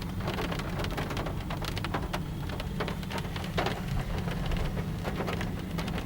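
Rain pattering on a car's body and windscreen, heard from inside: many separate drop ticks over a steady low rumble.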